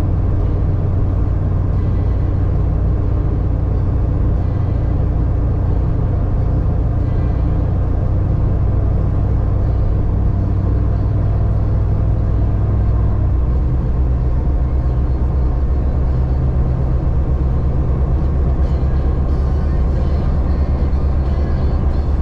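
1999 Jeep Cherokee XJ running off-road on a snowy trail, its engine giving a steady low drone; the engine note changes about halfway through.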